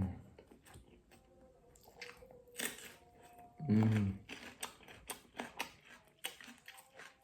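A person chewing fish and rice, with many short smacking clicks that come thicker in the second half, and a hummed 'hmm' of enjoyment about four seconds in.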